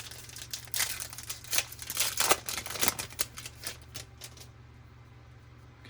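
Baseball trading cards being handled and shuffled: a quick run of crisp clicks and rustles of card stock for about four seconds, dying away to a faint low hum.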